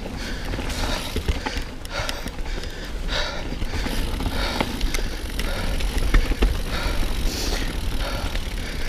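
Mountain bike being ridden down a wet dirt trail: tyre noise and frame and chain rattle, with scattered clicks and short hissy bursts over a steady rumble.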